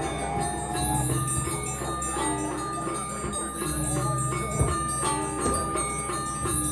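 Balinese gamelan playing: bronze metallophones and gongs ring out a repeating figure, with a few drum strokes.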